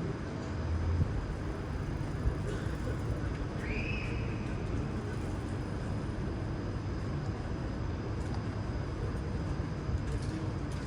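Steady low rumble of street traffic, with a brief high-pitched chirp about four seconds in.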